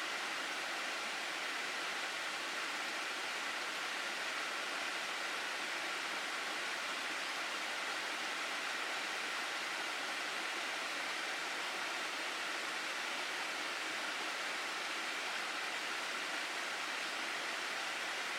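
Mountain stream water rushing steadily over rocks, an even, unbroken rush of water.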